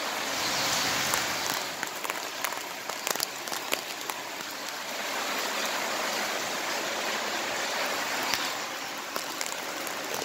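Heavy rain falling steadily: an even hiss with scattered sharp ticks of drops striking nearby.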